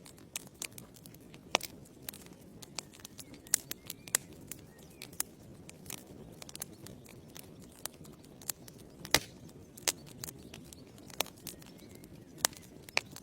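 Wood fire crackling: irregular sharp pops and snaps from burning logs over a soft steady rush of flame, with a few louder pops about two, nine and ten seconds in.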